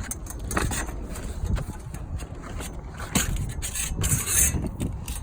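Handling noise while a muffler is being measured: a run of small clicks and knocks, with two louder scraping rasps about three and four seconds in.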